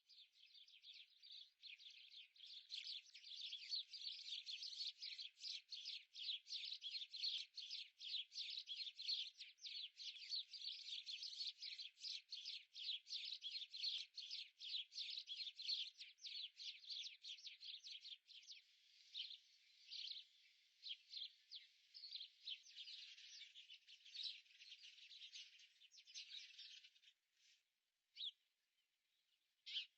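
Bird chirping in a fast, continuous string of short, high calls, several a second, thinning out to a few scattered chirps in the last few seconds.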